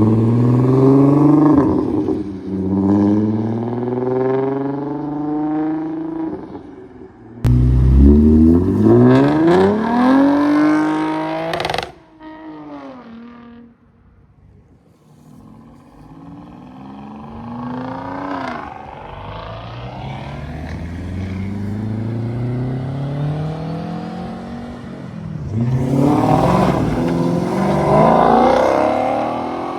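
A car engine revving hard again and again, its pitch climbing and falling with each rev. A sudden loud rev climbs for several seconds and cuts off sharply, then after a quieter stretch the engine builds slowly to another loud burst of revs near the end.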